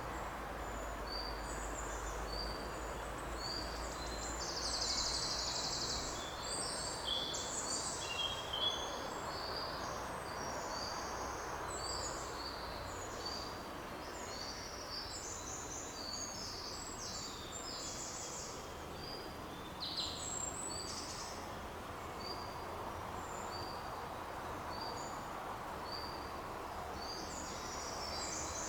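Several birds chirping and singing in short, high calls and quick trills, busiest in the first third and again around the twentieth second, over a steady rushing background noise.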